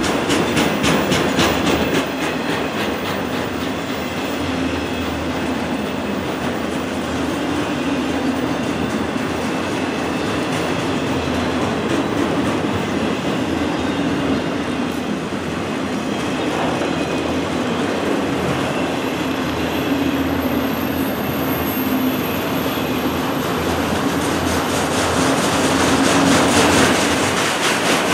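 Loaded freight train's autorack cars rolling past at steady speed: a continuous rumble of steel wheels on rail, with rhythmic clicking as the wheels cross rail joints.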